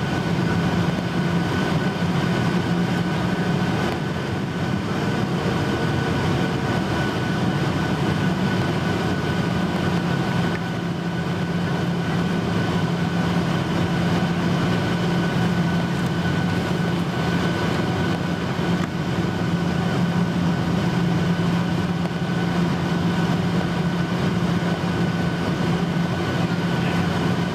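Cabin noise heard inside a Boeing 737-800 in flight: a steady rush of airflow with the drone of its CFM56 turbofan engines, a low hum and a higher whine holding steady pitch.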